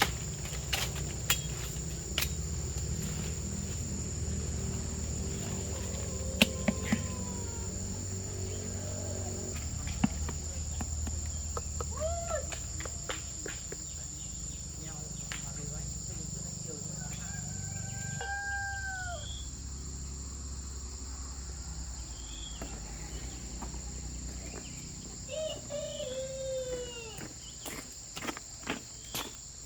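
Insects trilling steadily at a high pitch, with a low hum underneath that cuts off about two-thirds of the way through. Scattered clicks and a few short rising-then-falling bird calls come and go, several of them close together near the end.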